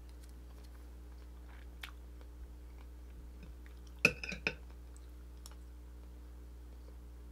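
Quiet chewing of beef tapa, with faint small mouth sounds. About four seconds in comes a quick clatter of a few ringing clinks as a metal spoon and fork strike the plate.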